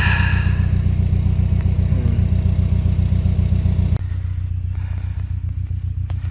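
Narrowboat engine idling with a steady, even low throb. About four seconds in it drops abruptly and turns quieter, with a few faint clicks.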